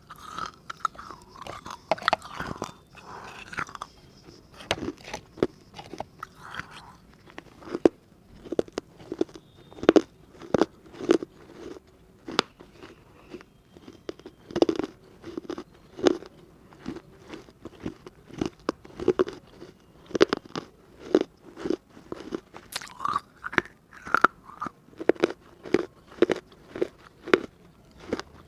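Close-miked biting and chewing of a hard baked-clay diya (earthen lamp): a steady run of sharp, gritty crunches, about one to two a second.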